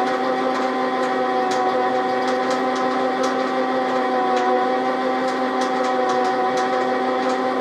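Metal lathe running under power with a steady, even gear whine, with scattered light ticks over it.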